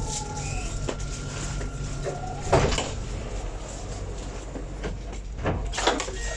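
Alstom Citadis 402 tram in its cab, a falling motor whine dying away in the first second over a steady low rumble. A steady high tone stops about two and a half seconds in with a short loud burst of noise, and two more short bursts come near the end.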